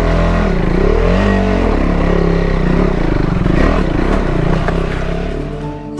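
Motorcycle engine revved up and down several times, fading out near the end.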